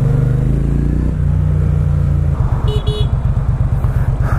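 Motorcycle engine running steadily at road speed, then dropping to a low, pulsing idle about halfway through. Two short horn beeps follow.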